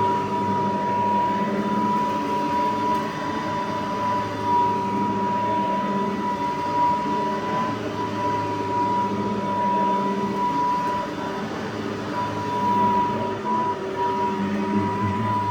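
Cordless Riccar lightweight vacuum running, its motor giving a steady high whine, with the lower airflow and brushroll noise rising and falling a little as it is pushed over the floor.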